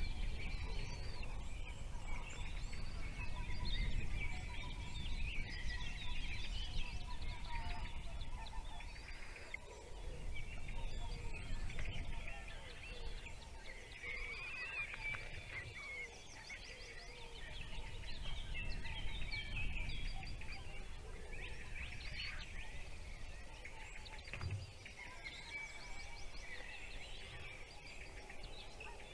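Small birds chirping and twittering in quick, irregular bursts, over a low steady rumble.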